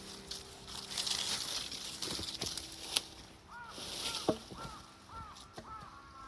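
A bird calling in a rapid series of short, arched notes, about two to three a second, starting about halfway in. Before it come intermittent rustling and a couple of sharp clicks.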